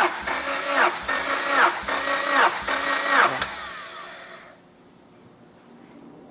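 Honda B18C Type R 1.8-litre DOHC VTEC four-cylinder engine revved in quick repeated blips, about once a second, each climbing to a high pitch, holding briefly and dropping back. About three and a half seconds in there is a sharp click and the engine sound dies away.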